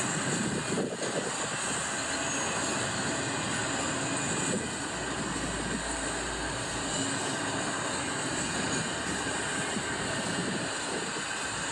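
Intermodal freight train rolling past: a steady noise of steel wheels running on the rails, with faint steady high-pitched tones over it.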